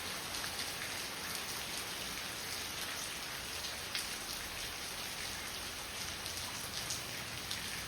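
Steady rain falling, with the patter of many separate drops.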